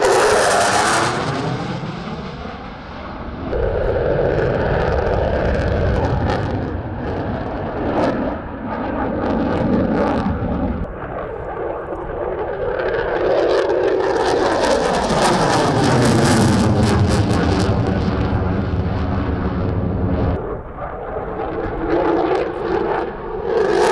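F-16 fighter's single jet engine running loud through passes over the field, its sound swelling and fading several times with sweeping tones that rise and fall as the jet goes by.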